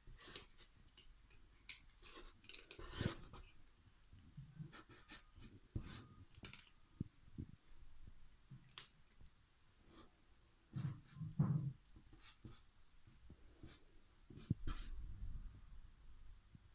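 Pen scratching on paper in short, irregular strokes, with a few soft low bumps about eleven seconds in.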